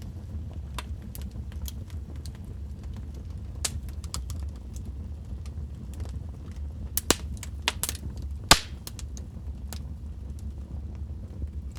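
Wood fire crackling in a fireplace: scattered sharp pops and snaps over a steady low rumble of the flames, with a cluster of louder pops around the middle and one sharp crack about two thirds of the way through.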